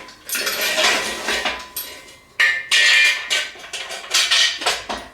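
Metal clanking and clinking in repeated bursts, some with a brief ringing tone: an engine hoist's chain and hooks being handled as the hoist is hooked up.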